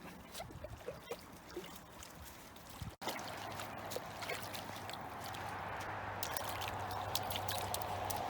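Shallow water trickling and splashing. About three seconds in, the sound changes abruptly to a louder, steady rush of water with many small splashes and a low hum underneath.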